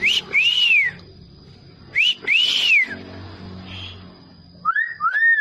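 Hill myna whistling: three two-note calls about two seconds apart, each a short rising note followed by a longer arched whistle that rises and falls, the last pair pitched lower.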